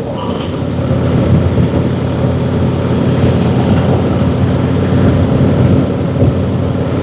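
Motorcycle engine running steadily under way, at a constant pitch.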